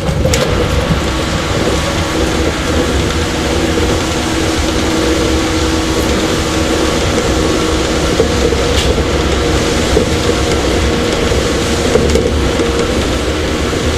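JR 115 series electric motor car KuMoHa 115-318 running at a steady speed: a constant motor and gear hum over rolling rail noise, with a few sharp clicks from the track.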